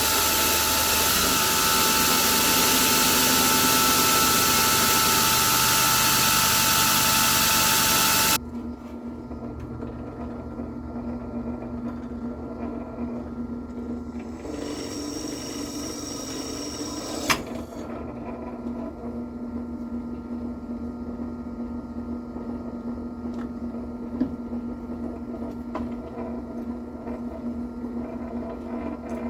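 A power tool runs loudly with a steady whine and stops abruptly about eight seconds in. A quieter steady hum follows, with a brief high whine that ends in a sharp click a little past halfway.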